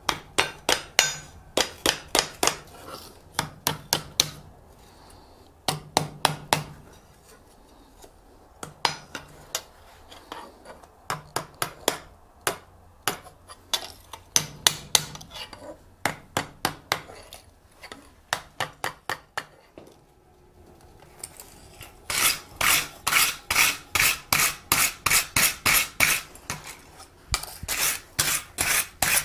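Hand hammer striking a small steel ornament blank on the anvil horn, rolling its tip into a loop: bursts of quick blows separated by short pauses, then a faster, louder run of strikes near the end.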